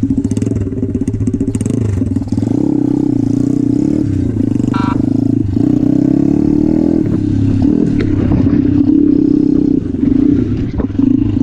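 Motorcycle engine running steadily under way, its pitch rising and falling a little as the throttle changes. A brief higher-pitched sound comes about five seconds in.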